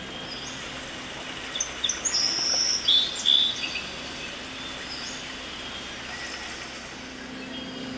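A short run of high bird chirps and whistles, some held briefly and some falling in pitch, between about one and a half and four seconds in, over a steady low hum.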